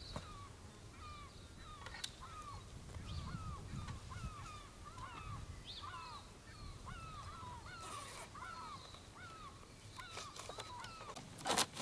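A flock of birds calling over and over, many short hooked calls overlapping one another. A couple of sharp knocks come near the end.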